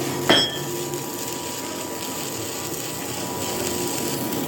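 A steady mechanical hum, like a running machine or air tool, with a single sharp metallic clink about a third of a second in.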